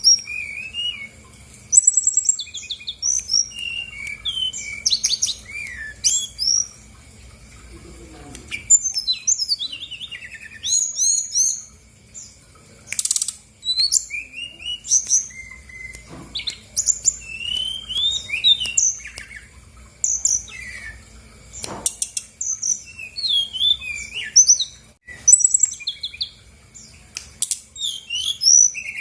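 Brown-chested jungle flycatcher singing a long, varied run of high chirps, rapid trills and slurred whistles, phrase after phrase with short pauses.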